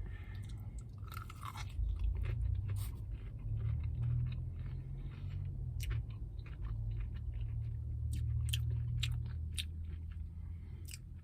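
Close-miked chewing of a crispy hand-breaded fried chicken sandwich, with many small irregular crunches of the breading.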